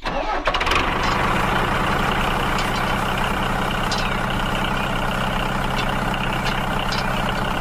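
A vehicle engine sound running steadily at an even pitch, starting about half a second in, with a few faint ticks over it.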